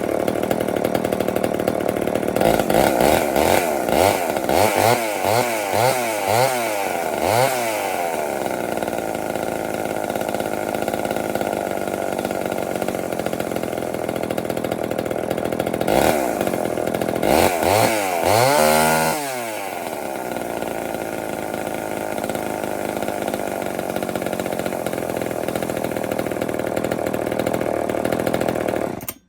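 Poulan 245/306 two-stroke chainsaw running just after its ignition points were adjusted. It idles steadily, is revved in a quick run of short throttle blips a few seconds in and again about two-thirds through, and then shuts off abruptly at the very end.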